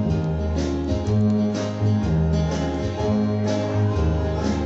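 Live country-gospel band playing an instrumental passage: acoustic guitar strummed over a bass line that steps between notes every second or so.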